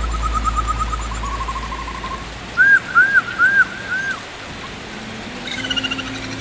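Birdsong: a rapid trill, then four loud arched whistled notes, then a short falling run of notes, over a steady background hiss. A low drone and a few soft rising musical notes sit underneath, the notes coming in near the end.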